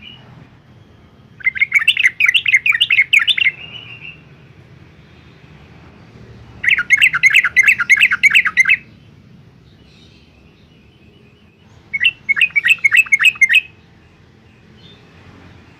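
Yellow-vented bulbul singing: three bouts, each about two seconds, of rapid bubbly notes, with faint calls between them.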